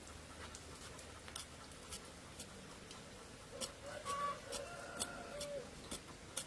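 A rooster crowing once, a long drawn-out call from about three and a half to five and a half seconds in. Scattered sharp ticks sound throughout.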